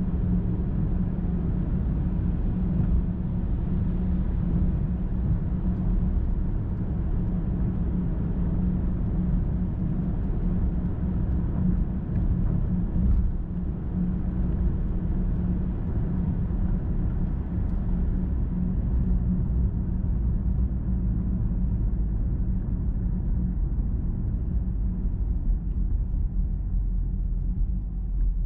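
Car driving at highway speed: a steady low rumble of engine and tyres on the road, with a constant hum.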